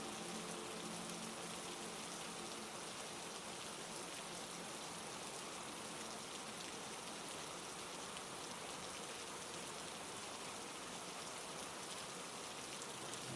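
Steady heavy rain falling, an even unbroken rush of drops.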